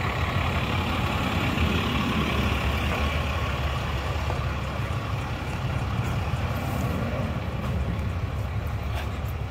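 Steady road and engine noise of a vehicle driving, a constant low rumble with road hiss above it and a couple of faint clicks near the end.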